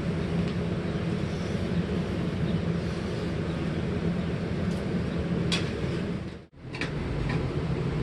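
A steady mechanical hum and rush with a few faint light clicks, dropping out sharply for a moment about six and a half seconds in.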